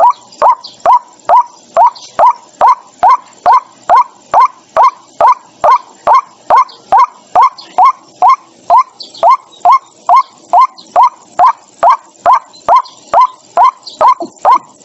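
White-breasted waterhen calling, a steady run of short, sharp notes repeated evenly about two times a second. This is the lure call used in speakers to attract waterhens.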